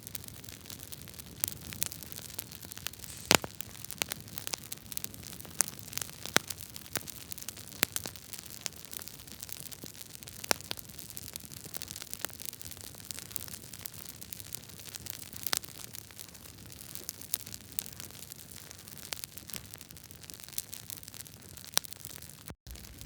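Wood fire burning in a fireplace: logs crackling, with irregular sharp pops and snaps over a steady hiss, one louder pop about three seconds in. The sound cuts out for an instant near the end.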